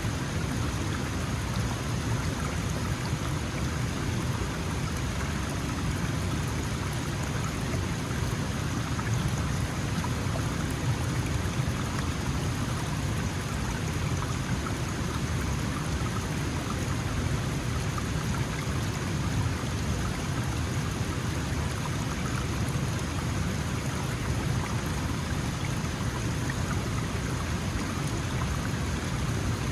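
Small mountain stream flowing, a steady rush of running water.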